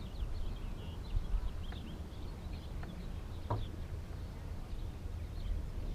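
Wind buffeting the microphone in a low rumble, with faint bird chirps in the background and a single light knock about halfway through.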